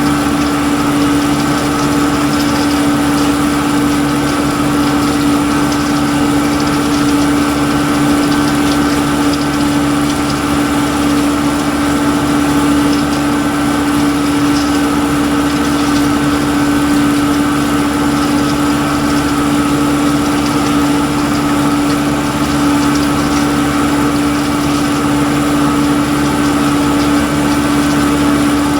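Engine-driven machinery running at a constant speed: a steady drone with one strong unchanging hum and no breaks.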